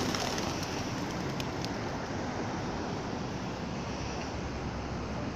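Steady outdoor rushing noise: wind on the microphone over a low hum of street traffic, with a couple of faint clicks about a second and a half in.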